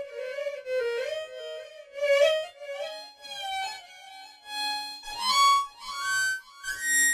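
A sampled solo melody instrument from an ORG 2023 sound set playing a single line that slides smoothly between notes, climbing higher over the last couple of seconds.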